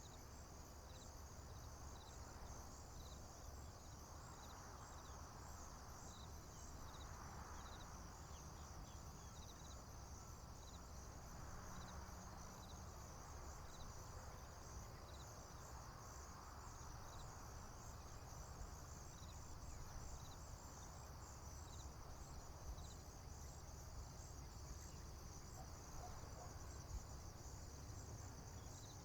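Faint chorus of crickets and other insects in a field: a steady high, pulsing trill, with a separate slower chirp repeating about once a second. Under it runs a low rumble with soft swells.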